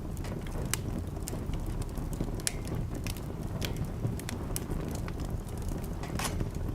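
Wood fire crackling in a fireplace: irregular sharp pops and snaps over a low steady rumble of burning.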